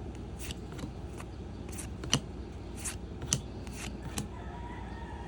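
Trading-card pack and cards being handled: a string of short crinkles and rustles, about nine in four seconds, the sharpest a little over two seconds in.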